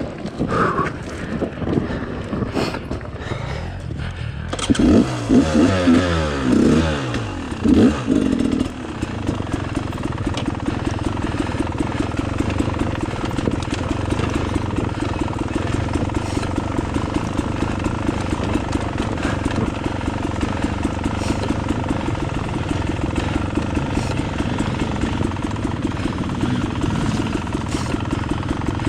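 Trail motorcycle engine revving up and down a few times, then running steadily at an even pitch.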